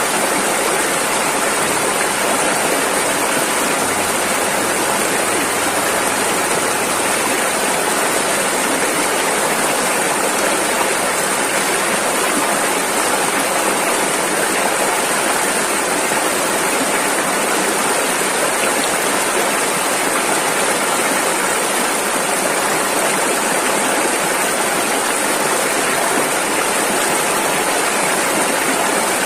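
A rushing river: fast water over rapids making a loud, steady, unbroken roar.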